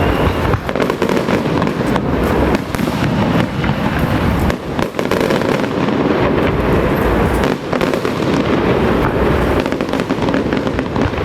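Fireworks crackling loudly in a dense, unbroken stream of rapid bangs.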